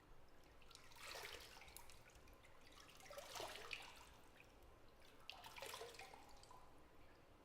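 Bathwater trickling and dripping in a bathtub in three short, soft spells about two seconds apart, with small drip clicks.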